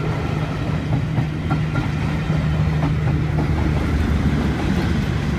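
A full-size railway train running on the track, with a steady low drone and faint clacking of wheels on the rails.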